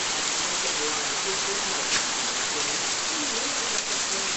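Heavy rain falling steadily, with one sharp tap about two seconds in.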